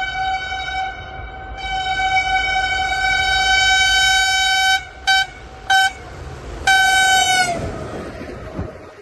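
Henschel diesel locomotive horn sounding a long blast, then two short toots, then a blast of about a second whose pitch sags as it cuts off. Under the horn, the train's rumble fades away toward the end.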